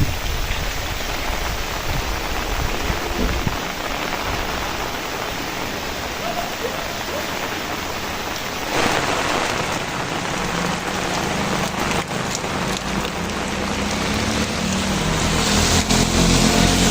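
Heavy rain falling steadily. In the second half a low rumble builds toward the end.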